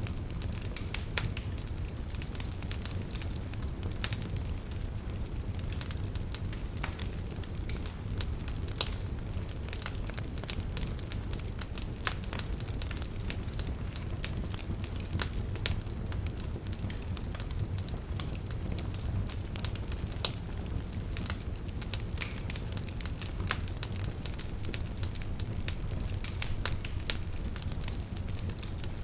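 Wood fire burning in a fireplace: a steady low rumble of the flames with irregular crackles and snaps, and a few louder pops.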